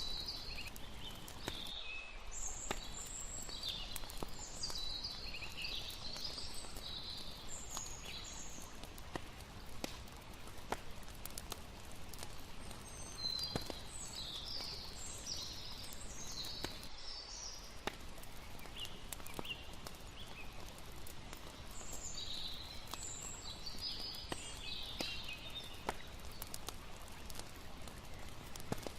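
Layered night ambience: a campfire crackling with scattered sharp pops over the steady wash of a river, with bursts of high chirping calls coming and going every several seconds.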